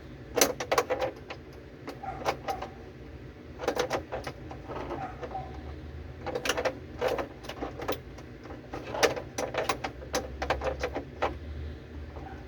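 Clusters of sharp clinks and knocks, tools and metal parts being handled, every second or two over a low steady hum.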